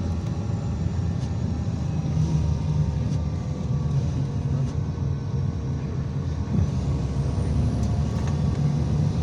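IVECO Crossway 13M city bus under way: a steady low drone from its engine and the road, with a few faint ticks.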